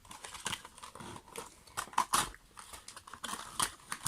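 Small blind-box toy package being opened by hand: a string of irregular crinkles and clicks of packaging material.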